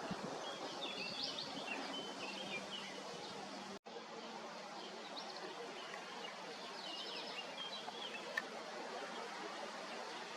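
Small birds chirping in two short spells over steady outdoor background noise. The sound cuts out for an instant a little before four seconds in, and there is one sharp click near the end.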